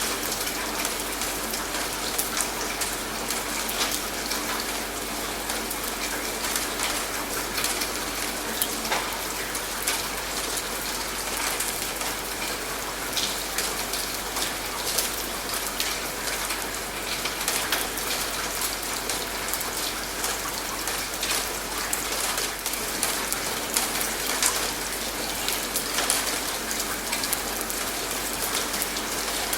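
Steady rain falling, with many small drop ticks on a surface.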